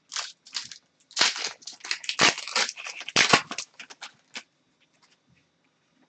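Hockey trading cards being handled and flipped through: a quick run of rustling, scraping and crackling strokes that stops about four and a half seconds in.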